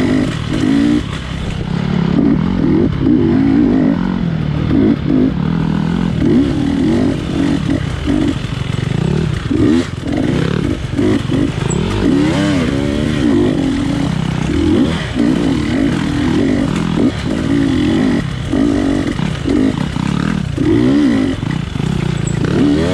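GasGas dirt bike engine revving up and down over and over as the throttle is opened and closed through a tight trail, its pitch climbing and dropping every second or so.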